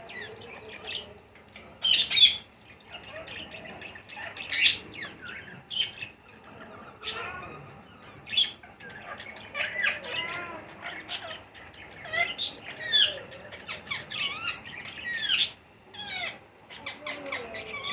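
Ringneck parrots squawking and chirping: a run of many short, irregular calls that glide quickly up and down in pitch, with a few sharper, louder squawks.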